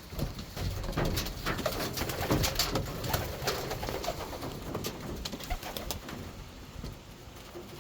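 Racing homer pigeons cooing, with short clicks and scratches, loudest in the first half and fading toward the end.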